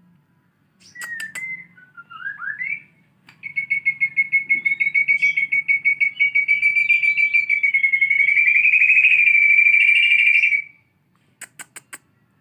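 White-rumped shama singing a canary-style song: a few sharp clicks and short whistled glides, then one long, fast rolling trill of about seven seconds that stops abruptly, and another quick run of clicks near the end.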